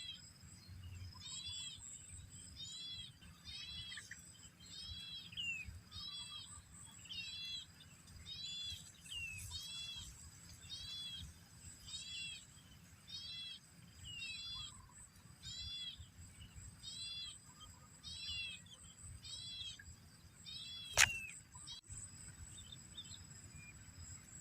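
A bird repeating a short, arched chirp about once a second, stopping about 20 seconds in, over a steady high-pitched whine. A single sharp click about 21 seconds in is the loudest sound.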